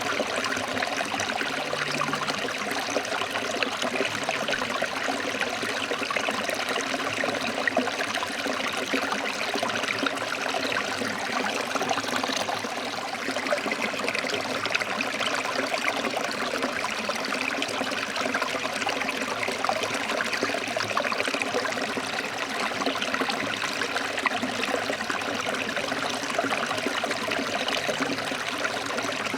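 Forest stream flowing over rocks: a steady rush of water.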